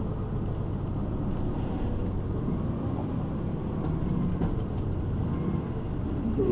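Steady low rumble of a city bus's engine, heard from inside the passenger cabin.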